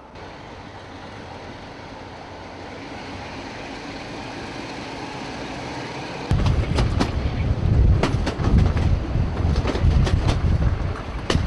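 Riding aboard a heritage diesel train as it pulls away, its running noise building steadily. About six seconds in, loud wind buffeting on the microphone at an open window takes over, with sharp clicks of the wheels over rail joints.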